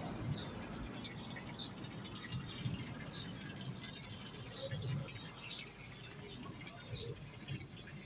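Small birds chirping: repeated short, high calls, roughly one or two a second, over a low background rumble.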